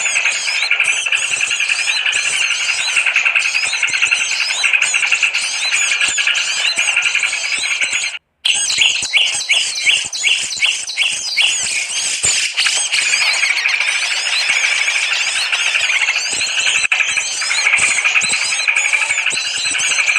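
Dense chorus of many small birds chirping and twittering, played as a lure call for small birds. It cuts out for a moment about eight seconds in, then a run of about eight quick, evenly spaced falling chirps stands out before the chorus fills in again.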